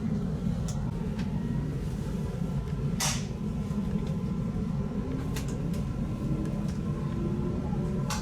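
Inside a passenger train carriage: a steady low rumble with scattered clicks and knocks, and a short hiss about three seconds in. A faint whine rises slowly near the end.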